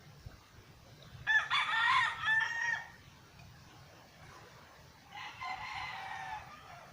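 Rooster crowing twice: a loud crow about a second in, then a fainter crow about five seconds in.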